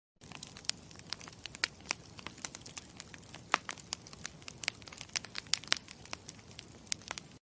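Campfire crackling: a low, steady rush dotted with frequent, irregular sharp pops and snaps. It starts just after the beginning and cuts off abruptly near the end.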